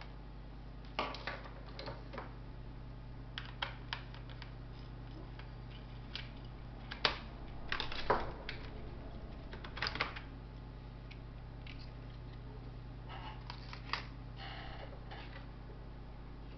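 Scattered clicks, taps and brief scrapes from the parts of an HP ProBook 4525s laptop being handled as it is taken apart, coming in small irregular clusters over a steady low hum.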